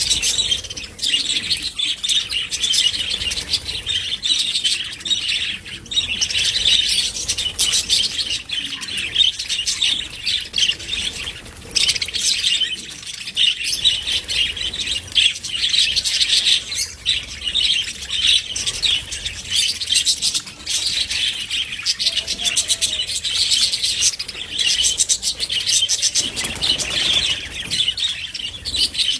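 A group of budgerigars chattering and chirping continuously, their high calls overlapping without a break.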